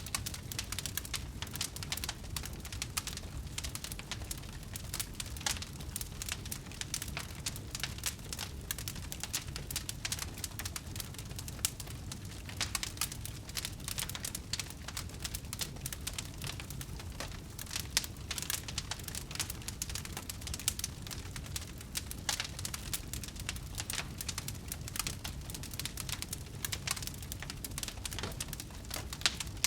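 Wood fire crackling: a dense, irregular run of sharp pops and snaps over a low steady rumble, with a few louder pops now and then.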